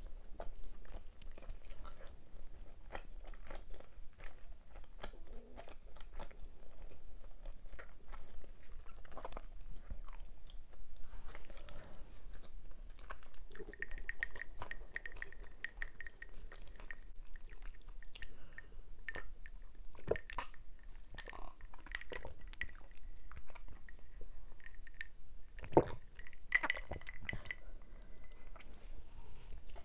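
Close-miked chewing and wet mouth sounds of someone eating cheesy beef Alfredo and buns: many small smacks and clicks, with a sharp thump a little before the end.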